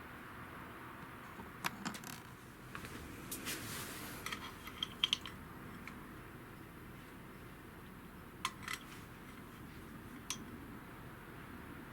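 Small metal parts being handled: scattered light clinks and taps, a cluster of them in the first half and a few single ones later.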